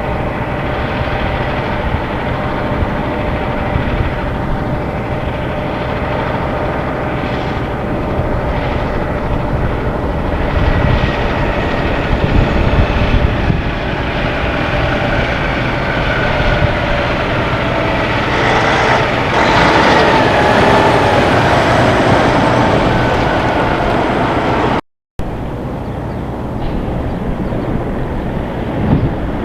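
Semi truck engine and road traffic noise, steady and loud. The engine tone swells and bends in pitch as a truck goes by, loudest about two-thirds of the way through. The sound cuts out completely for a moment near the end, then resumes.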